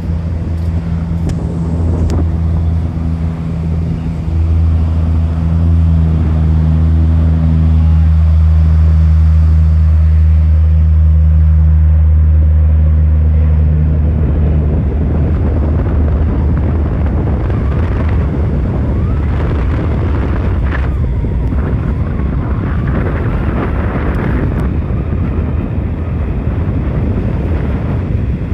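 A waterscooper firefighting aircraft's propellers drone low and steady during its refill run on the ocean. About halfway through the drone fades into a rushing noise of wind and surf, with wind buffeting the microphone.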